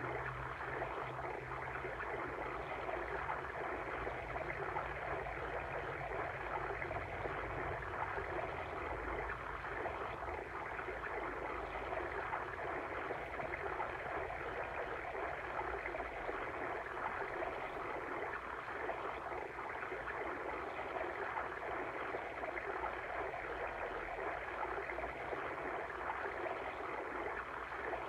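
Steady rushing and babbling of a water stream, even and unbroken.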